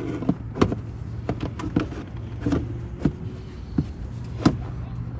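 Scattered light clicks and knocks of parts being handled and fitted in a car's engine bay, over a steady low hum.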